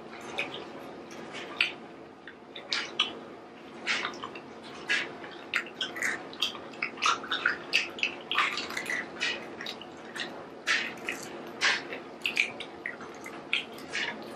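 People chewing and biting into garlic bread pizza close to the microphone: an irregular run of wet mouth clicks and smacks, several a second, over a faint steady hum.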